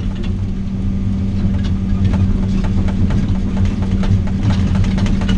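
Heavy diesel machine's engine running steadily, heard from inside the cab, with scattered light ticks and knocks over it.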